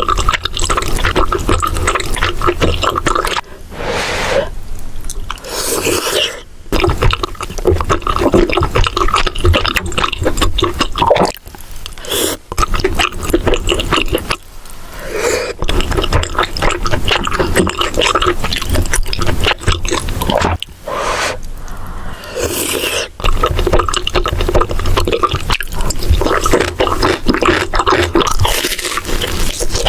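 Close-miked mukbang eating sounds: wet chewing, smacking and slurping of food, in long runs with a few short breaks.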